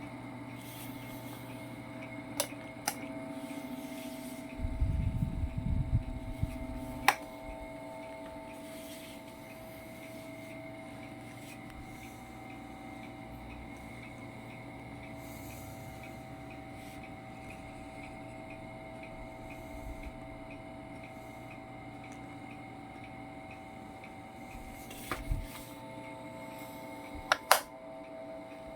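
Asahi PF-630 electric fan's motor running with a steady hum and a higher whine, the motor noise the owner is recording. A burst of low rumbling about five seconds in, and a few sharp clicks, two of them near the end.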